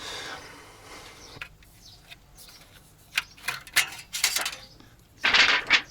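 Metal tools and engine parts clinking and knocking against each other in a series of sharp clicks, with a louder rattling clatter near the end.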